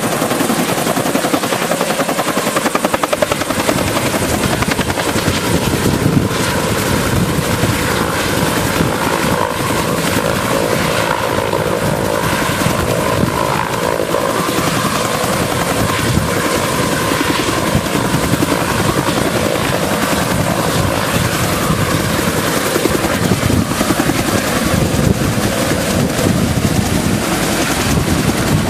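Firefighting helicopter running close by: a loud, steady, rapid rotor chop that never lets up.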